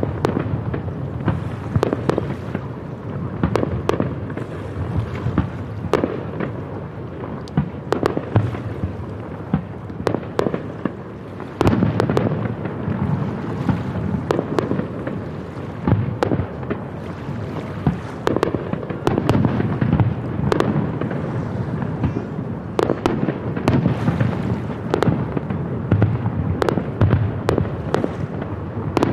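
Aerial firework shells bursting one after another: irregular sharp bangs, several a second at times, over a continuous low rumble of booms.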